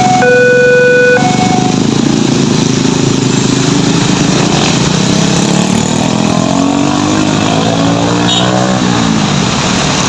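A railway level-crossing warning alarm sounding its steady alternating tones, which stop about two seconds in. Then the noise of road traffic moving off across the crossing, with engines revving up in rising pitch.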